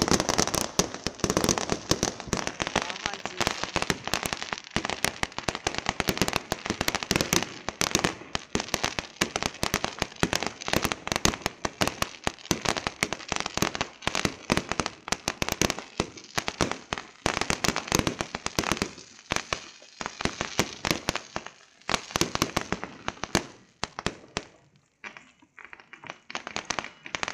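Fireworks going off in a dense, continuous barrage of rapid sharp crackles and pops, thinning into sparser bursts near the end.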